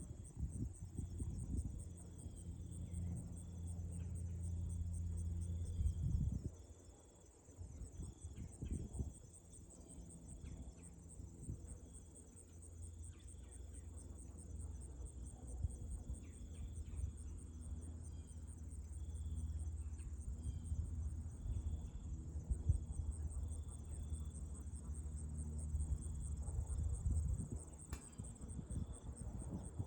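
Crickets trilling steadily and high, with shorter repeated chirps a little lower, over gusts of wind rumbling on the microphone that rise and fall, easing off for a moment about six seconds in.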